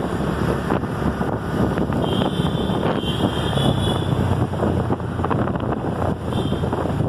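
Wind buffeting the microphone over a steady low rumble, with a thin high tone from about two to four seconds in and briefly again near the end.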